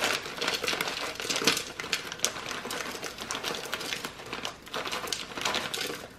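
Crinkly rustling with rapid irregular clicks as kale leaves are handled and pushed into a blender jar.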